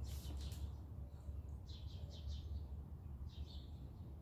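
Small bird chirping in short series of three or four quick high notes, repeated several times, over a steady low hum. A brief scraping noise right at the start.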